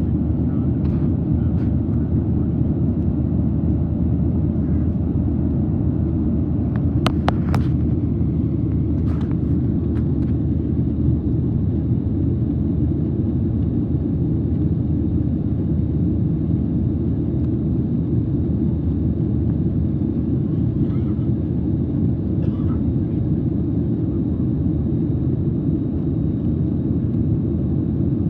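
Steady cabin noise of a jet airliner: a constant low rumble of engines and airflow, with a faint high whine over it. A few sharp clicks come around seven to ten seconds in.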